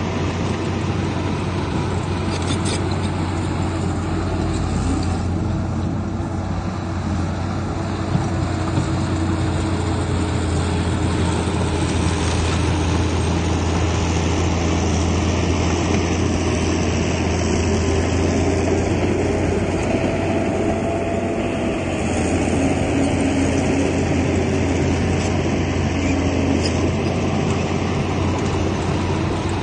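Heavy earthmoving machinery at work: the diesel engine of a Komatsu bulldozer running steadily under load as it pushes soil, a constant low drone with its pitch shifting slightly.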